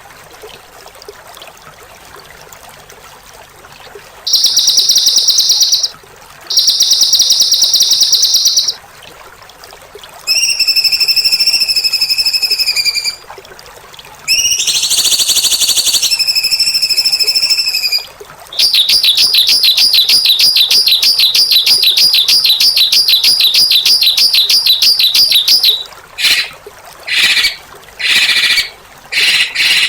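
Recorded songbird calls for bird training: harsh, rasping rapid trills in loud bursts of about two seconds, a whistled call with an overtone above it, then a long rattling trill of about seven seconds and several short harsh bursts near the end. About the first four seconds hold only a faint background hiss.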